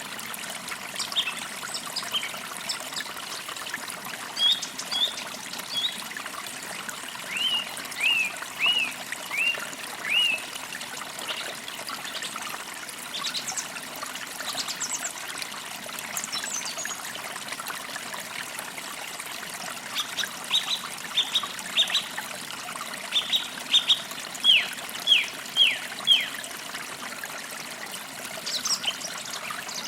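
Forest creek water trickling steadily, with birds chirping over it: a run of about five short, falling chirps roughly a quarter of the way in, and a longer run of a dozen or so quick, falling chirps about two-thirds of the way through.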